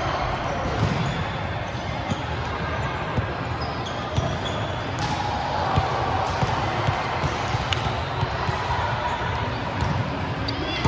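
Volleyballs bouncing and being struck in a gym, a scatter of short thumps over a steady hum of distant voices.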